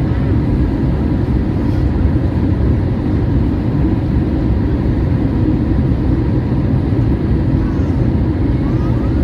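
Steady low roar inside the cabin of a Boeing 737-800 airliner: its CFM56 engines and the airflow over the fuselage, with a few faint steady tones above the rumble.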